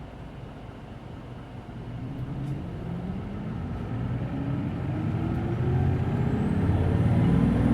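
Hino Blue Ribbon City Hybrid bus pulling away from a stop, heard from inside the cabin: the diesel engine revs up and gets steadily louder as the bus accelerates. A faint high whine rises and falls near the end.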